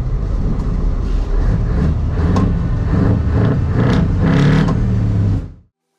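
Heavy truck engine running under load, with a low steady drone and some revving, cut off abruptly near the end.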